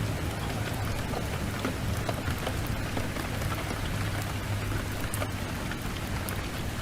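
Steady rain mixed with a wood fire crackling in a fireplace: an even hiss with a low rumble underneath and scattered sharp crackles.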